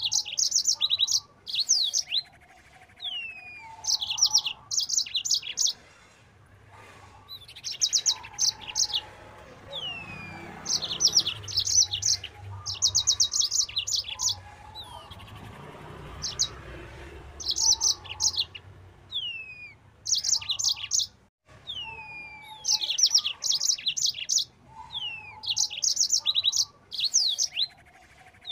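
Yellow-fronted canary (Mozambique canary) singing fast: bursts of very rapid high trilled notes alternate with short downward-slurred whistles and lower warbled phrases.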